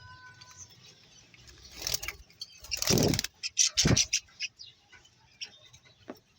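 Birds chirping, with short whistled notes near the start, then a few loud rustling bursts about two to four seconds in.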